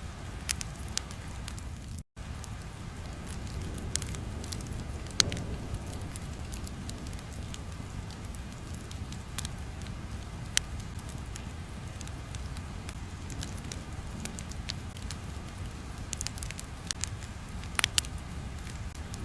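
Steady crackling ambience of the kind used in study-sound tracks: a low, even rumble with scattered sharp crackles and pops, like a fire burning. The sound cuts out for an instant about two seconds in.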